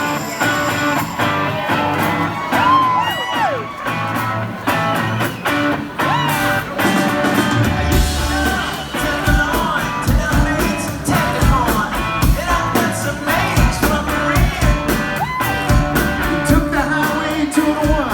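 Live rock band playing a song intro, with gliding, wordless vocal calls over it; drums and bass come in hard about eight seconds in.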